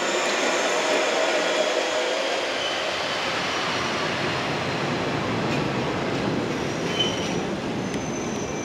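JR West 115-series electric train running along the rails and pulling away: steady wheel-and-rail rumble with faint high wheel squeal, and a single knock about seven seconds in.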